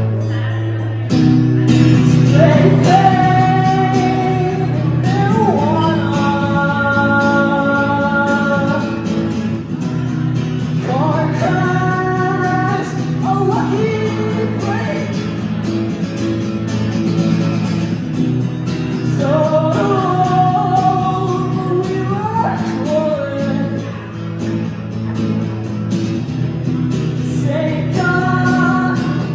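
A song performed live on guitar, with a voice singing long held notes over a steady guitar accompaniment.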